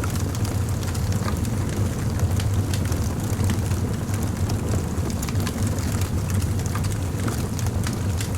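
Fire crackling: many small, irregular sharp pops and ticks over a steady low rumble.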